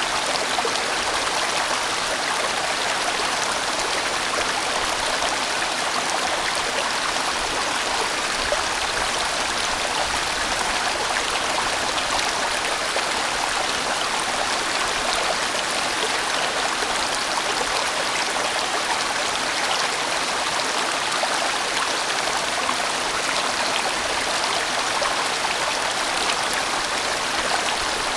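A sizeable mountain stream running steadily, its water rushing and splashing as it flows over rocks in a broad, winding valley.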